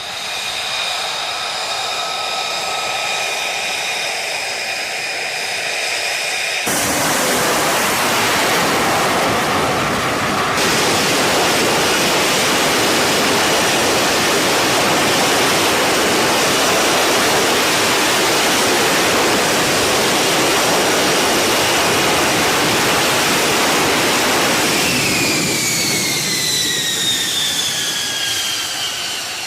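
F-35B Lightning II jet engine: a steady whine at first, then from about seven seconds in a loud, even rush of jet noise, with a falling whine coming through near the end.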